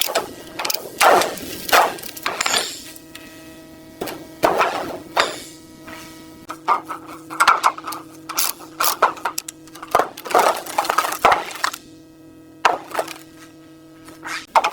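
Irregular knocks, taps and scrapes of hand tools on metal parts, over a faint steady hum.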